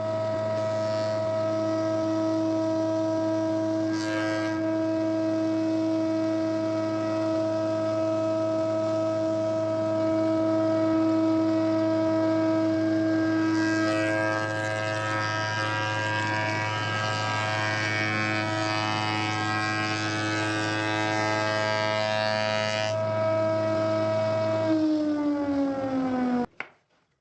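An electric power-tool motor runs at a steady pitch. From about halfway through to near the end, a rough scraping noise of the cutter working wood is added. The motor then slows with a falling pitch and stops suddenly.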